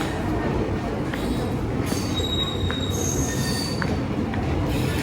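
Passenger train running on the track: a steady rumble of wheels on rails, with brief high-pitched wheel squeals and a few sharp clicks about a second apart as the wheels pass over rail joints.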